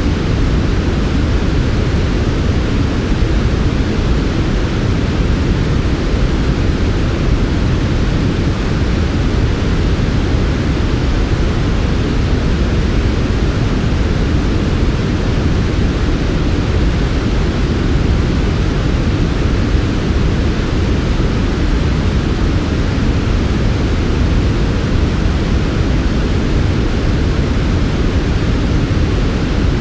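Steady, unbroken synthetic noise for sleep, soft 'white noise' that is shaped to be heavier in the low end and duller in the highs than pure white noise.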